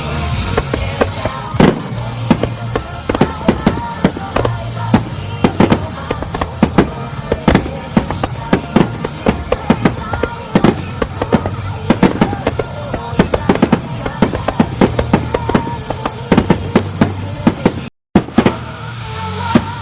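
Aerial fireworks bursting in quick succession, dozens of sharp bangs over music. The sound cuts out briefly near the end.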